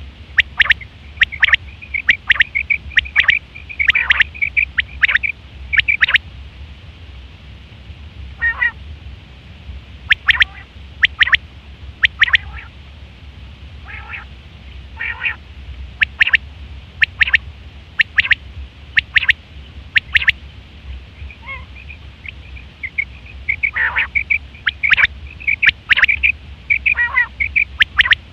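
Quail calling: short, sharp, high notes, some single and some in quick chattering runs, repeated throughout. A faint steady low hum runs underneath.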